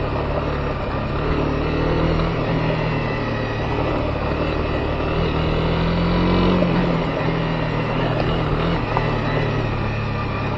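Honda CB250R's single-cylinder engine running steadily while riding a dirt forest road, with tyre and road noise underneath. The engine note lifts a little about two-thirds of the way through, then settles.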